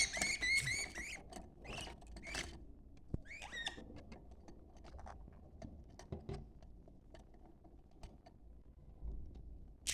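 Budgerigars chattering: a few short, squeaky warbled calls in the first few seconds, then scattered soft clicks and chirps.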